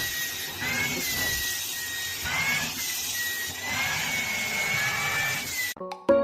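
A steady motor-like whir and hiss with a thin whine that wavers slowly up and down in pitch. It cuts off abruptly near the end, and keyboard music with piano-like notes starts.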